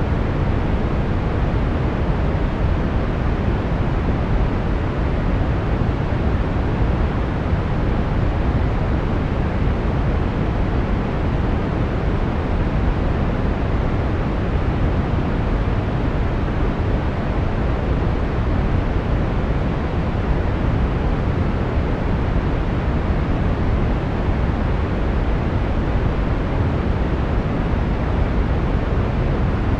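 Brown noise: a steady, deep rushing hiss, strongest in the low end and dull at the top, unchanging throughout.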